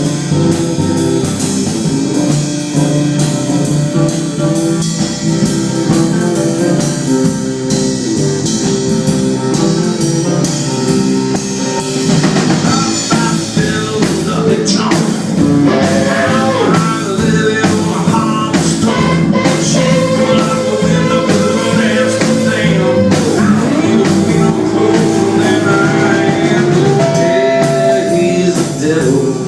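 Live band music with guitars and a drum kit playing steadily, and a lead melody line with bending notes over the band from about halfway through.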